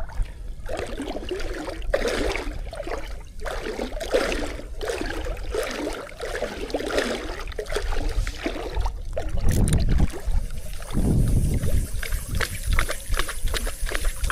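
Water sloshing and splashing against a belly boat (float tube) at sea, in uneven swells. A run of quick ticks comes near the end.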